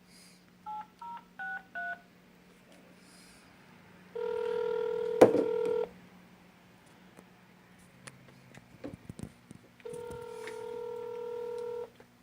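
Phone keypad tones beeping four times as a number is dialed, then the ringback tone sounding twice, about two seconds each, with a sharp click during the first ring.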